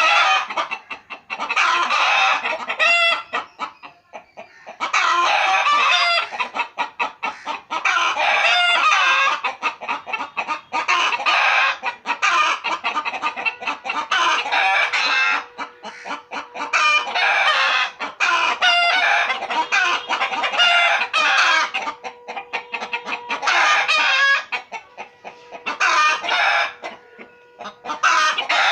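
Chickens clucking in repeated bouts of quick clucks, each bout a few seconds long with short lulls between. A faint steady tone runs underneath from about halfway through.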